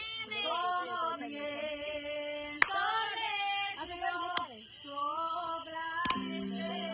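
A high-pitched voice singing in gliding, wavering notes, broken by three sharp clicks.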